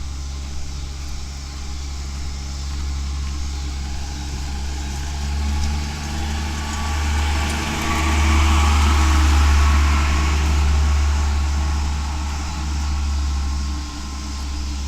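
Truck engine running close by, with a steady low hum that grows louder in the middle and then eases off.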